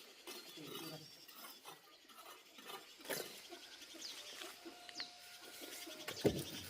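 Livestock bleating, the loudest calls starting near the end, over faint short high chirps.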